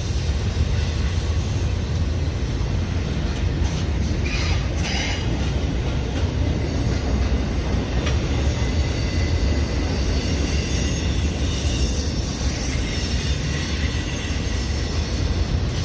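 Union Pacific intermodal freight train's cars rolling past: a steady, loud rumble of steel wheels on rail, with a brief higher screech about four seconds in.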